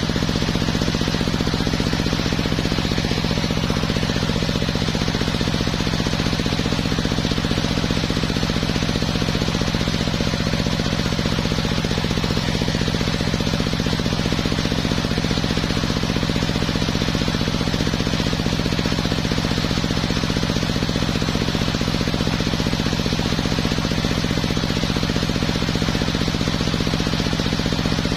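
Homemade circular sawmill running steadily, its motor and blade giving a constant low drone that does not change in pitch or level.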